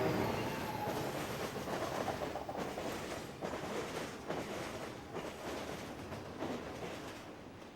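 A train passing, with a dense rumble and irregular clatter that slowly fade away. A horn-like chord dies out just as it begins.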